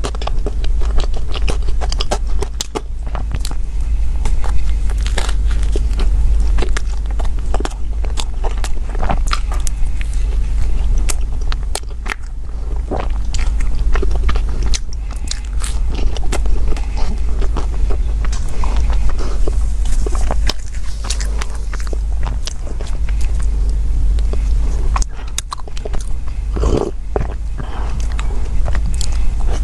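Close-miked chewing and biting of soft bread and flaky pastry, with many small sharp crackles and clicks throughout, over a steady low hum.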